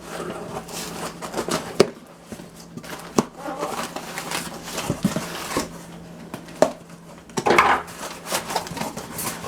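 Cardboard box and paper packing being handled and opened: scattered taps, scrapes and rustling.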